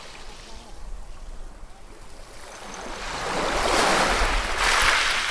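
Ocean waves: a wave builds from about halfway in and breaks in a loud rushing surge near the end, over a low rumble of surf.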